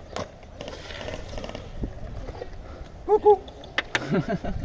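Scattered single sharp cracks of airsoft guns firing in a skirmish. A short two-syllable shout comes about three seconds in, and a brief falling voice comes near the end.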